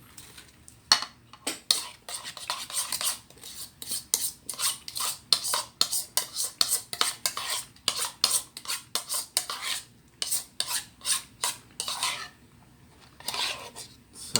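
A spoon scraping and clinking in a container of avocado ice cream: many short, irregular scrapes and taps, with a brief pause near the end.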